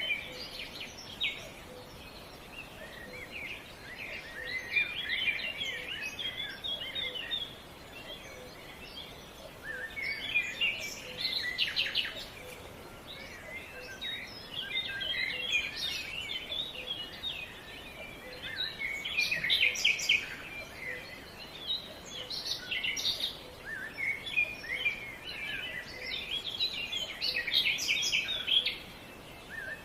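Several songbirds chirping and singing, overlapping high calls that come in bouts every few seconds over a faint steady outdoor hiss.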